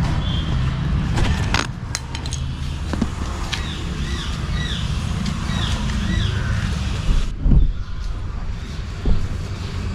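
A low, steady rumble like distant motor traffic, with a bird chirping several times in the middle and a few light clicks.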